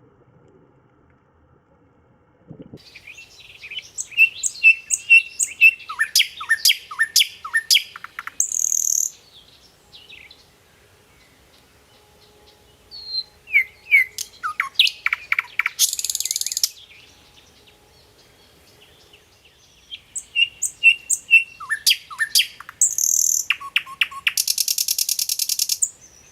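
A songbird singing three phrases a few seconds apart. Each is a run of quick whistled notes and short downward-sweeping notes that ends in a harsh, buzzy trill.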